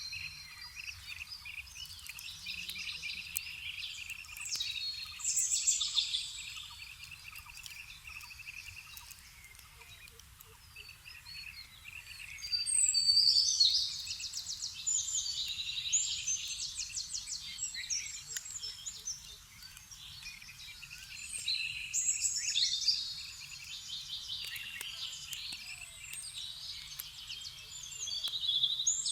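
Small birds singing and calling together, overlapping chirps and rapid trills, with the chorus swelling louder three times.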